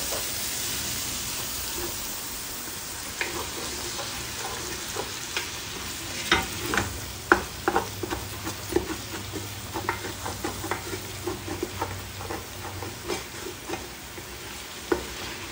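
Diced sausage, bacon and onion sizzling in an aluminium pressure-cooker pan just after a splash of water was added to lift the browned bottom and keep it from burning. A wooden spoon scrapes and knocks against the pan, with frequent short scraping strokes from about three seconds in.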